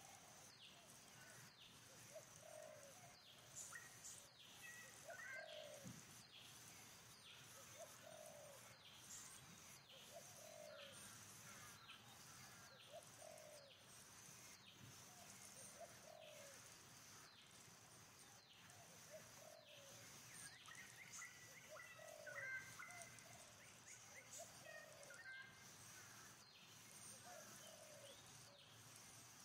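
Faint bird calls: a low cooing call repeating about every second and a half, with quick high falling chirps and a steady high hum behind them.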